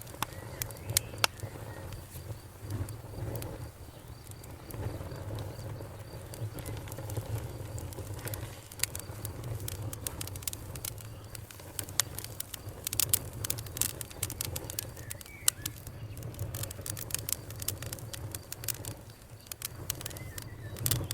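A fire crackling, with irregular sharp pops and snaps over a steady low rumble of the flames; the pops come thickest a little past the middle.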